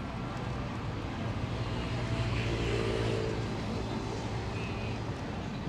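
A motor vehicle's engine humming steadily, growing louder around two to three seconds in and then easing off.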